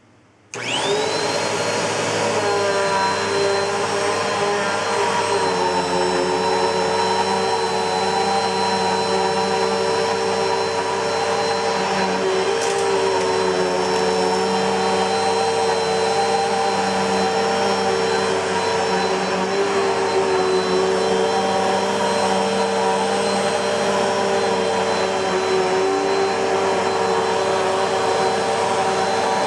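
Bissell PowerForce Helix Turbo bagless upright vacuum cleaner switched on about half a second in, its motor whine rising quickly as it spins up, then running steadily.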